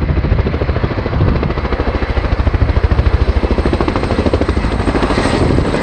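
RAF Boeing Chinook HC.6 tandem-rotor helicopter flying past, its two contra-rotating rotors making a loud, rapid, regular blade slap over a faint steady high whine.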